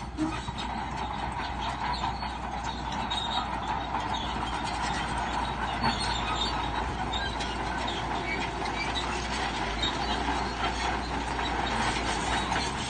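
Crawler bulldozer working: its diesel engine runs steadily under the steady clatter and squeal of its steel tracks.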